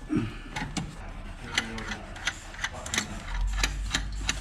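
A run of irregular sharp clicks and light taps, a few a second, with a low rumble coming in about three seconds in.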